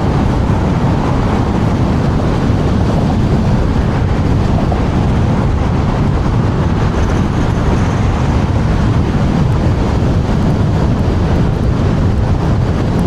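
Loud, steady wind rush buffeting the rider's microphone while riding a TRBK M2 electric scooter at speed in strong gusty wind.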